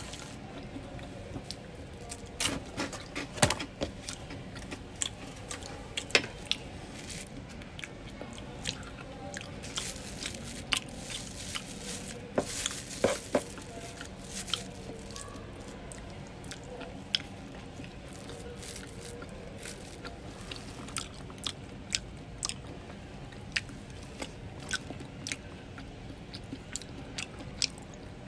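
A person biting and chewing McDonald's french fries close to the microphone, with many short, irregular mouth clicks and small bites.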